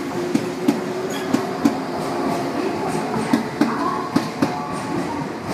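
JR West 583-series electric train's cars rolling past close by at low speed, the wheels clacking over rail joints, mostly in quick pairs, over a steady hum from the train.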